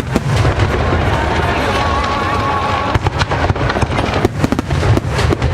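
Fireworks going off: a rapid run of sharp bangs and crackles over a steady low rumble, coming thicker and faster in the last second or so.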